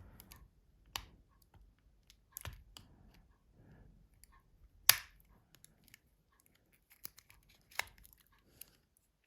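Mobile phone housing parts being handled and pressed together, with scattered sharp clicks, the loudest about five seconds in, between faint scraping and rustling.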